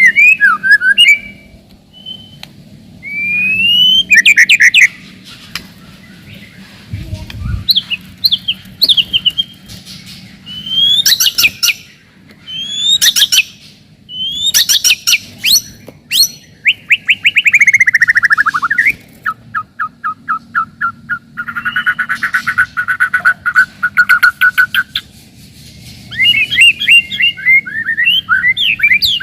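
White-rumped shama (murai batu) singing in loud, rapid bursts of whistled phrases: sweeping rising and falling whistles, sharp high notes, and a long run of fast repeated notes partway through.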